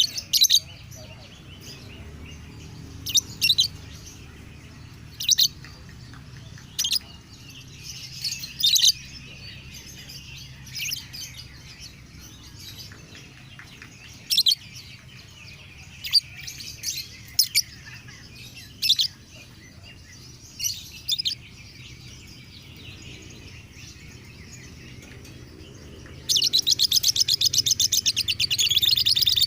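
Lovebird calling with short, sharp, high chirps every second or two. Near the end it breaks into a long, rapid chattering song.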